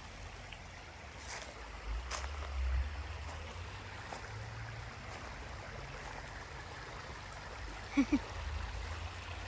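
Faint creek water running, with a low rumble of wind on the microphone and a few light clicks. Two short low sounds come close together about eight seconds in.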